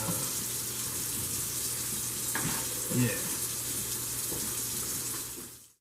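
A steady hiss of kitchen cooking work, with faint voices underneath; it cuts off abruptly near the end.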